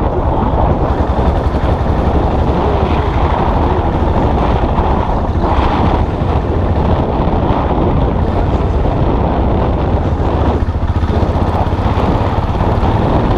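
Custom motorcycle's engine running steadily while riding, with wind and road noise on the microphone.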